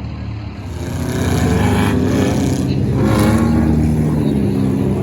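Stock car engines running at track speed, getting louder about a second in and staying loud, with engine pitch wavering as the cars circulate before the restart.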